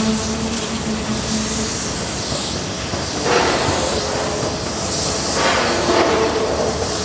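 Airbus A320-232 jet engines running with a loud, steady rushing noise and several steady tones, with two swells of louder noise around the middle.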